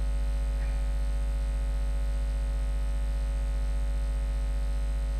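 Steady electrical mains hum and buzz, unchanging throughout.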